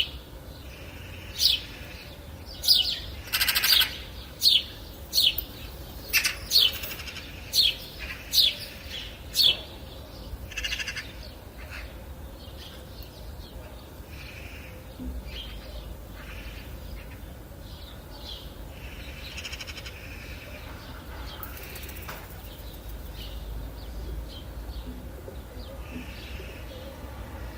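Wild birds calling: a run of loud, short calls, each falling sharply in pitch and repeated about once or twice a second, then fainter scattered chirps about ten seconds in, over a steady low rumble.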